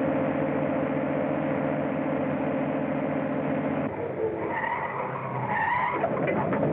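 A motor vehicle engine running hard with a steady, fast-pulsing note. About four seconds in, the note changes and a wavering high squeal comes in, like tires skidding.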